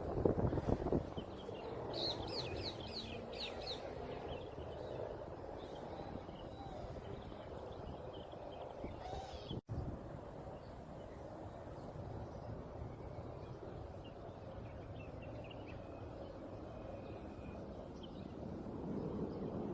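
Small bird calling a quick run of short, high, falling chirps about two seconds in, with fainter chirps again later, over steady outdoor background noise. The sound cuts out for an instant about halfway through.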